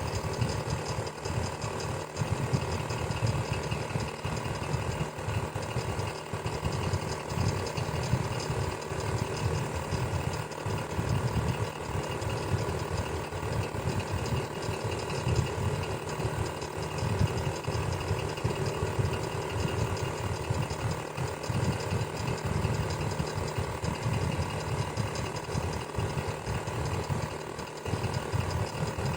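Electric fan running steadily: a constant hum with a fluttering low rumble underneath.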